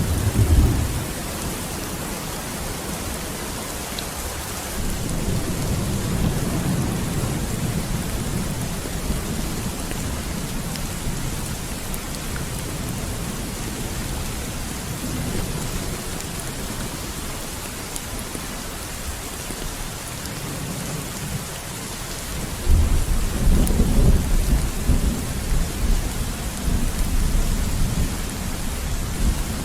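Steady rain with thunder rumbling: a short rumble at the start, a softer one about five to nine seconds in, and a louder, longer rumble from about twenty-two seconds in until near the end.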